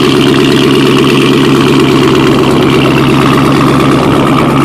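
Car engine running through a full Roush cat-back exhaust with the catalytic converters removed, at a steady, really loud fast idle after a cold start, before it settles to a lower idle.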